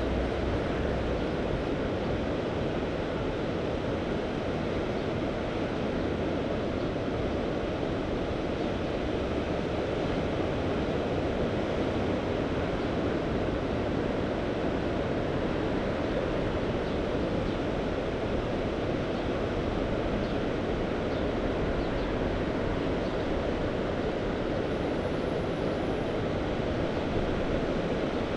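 Sea waves washing steadily onto the shore, an even rushing noise with no distinct breaks.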